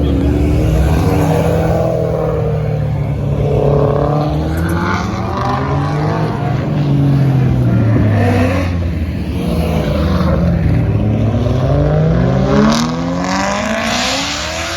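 Car engines revving over and over, the pitch climbing and dropping every second or two, with a sharp crack near the end.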